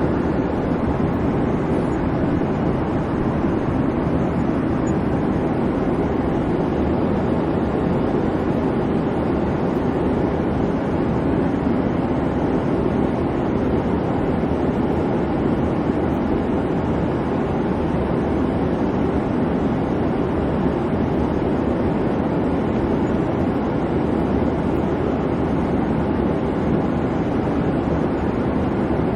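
Steady airplane cabin noise in flight: an even, unchanging hum and rush from the engines and the air.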